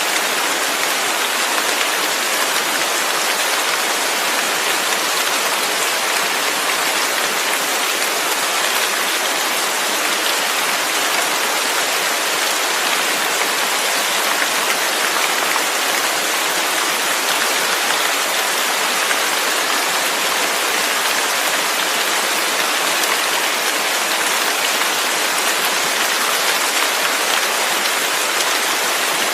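Steady, even rain falling, a constant hiss of drops with no thunder or other sounds.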